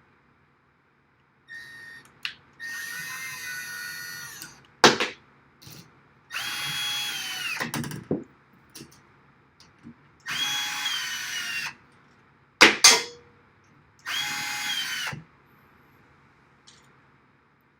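Power drill run in four bursts of one to two seconds each, its motor whine dropping in pitch as each burst winds down. Two sharp knocks come in the gaps between bursts.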